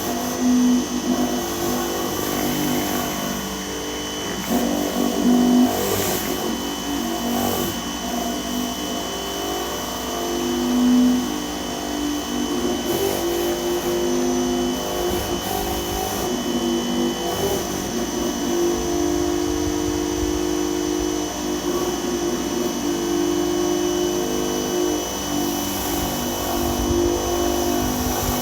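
Dewalt 2100 PSI electric pressure washer running and spraying, a steady motor-and-pump whine whose low pitch shifts up and down every second or two.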